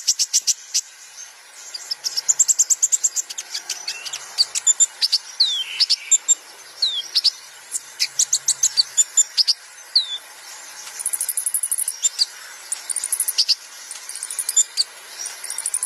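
Kolibri ninja sunbird singing: rapid strings of sharp high chirps and trills mixed with short gliding whistles, and a very high, fast buzzy trill about 11 seconds in and again near the end. This is a 'hadal' style song used as masteran, training song for caged songbirds.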